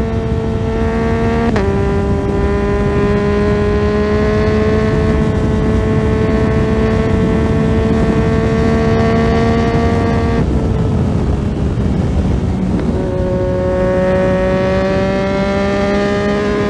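Yamaha MT-09's 890 cc inline-three through an Akrapovič titanium full exhaust, under way. About a second and a half in, a quick upshift drops the pitch at once, and then the note climbs slowly under steady throttle. About ten seconds in it backs off the throttle, and a couple of seconds later it pulls again from lower revs, climbing toward the end.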